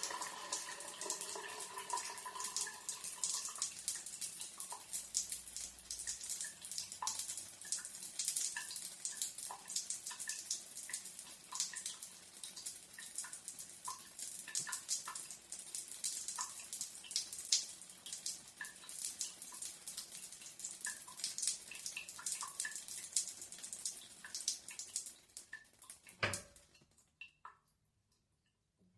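Shower running, its spray hissing and spattering with many droplets hitting. Near the end a sharp knock, and the water stops, leaving a few last drips before it goes quiet.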